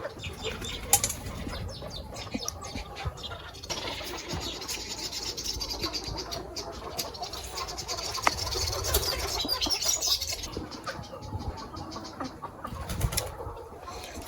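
Chickens flapping their wings and moving about, with many small clicks throughout.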